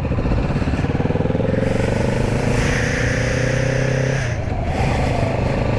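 Motorcycle engine pulling under steady acceleration, its pitch climbing slowly, then dropping and changing about four seconds in as the rider shifts gear.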